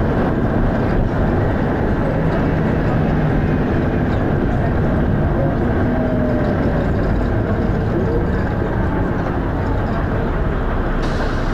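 Dennis Arrow double-decker bus on the move: a steady drone of engine and road noise with a few faint shifting tones, and a short burst of hiss near the end.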